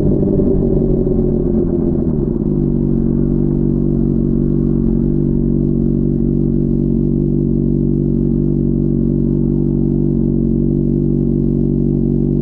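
Honda CBR600RR inline-four engine dropping in revs over the first couple of seconds, then settling into a steady idle.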